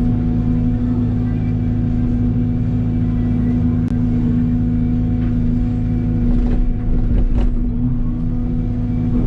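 Mini excavator's diesel engine running steadily, with a few short knocks about four, six and a half and seven and a half seconds in.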